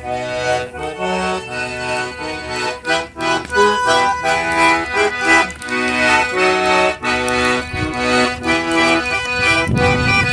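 Accordion playing a lively traditional tune, melody and chords moving in short notes, with frequent sharp strokes along with the notes.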